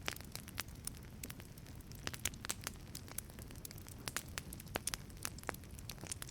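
Wood fire burning in a wood-fired pizza oven: irregular sharp crackles and pops over a steady low rumble of the flames.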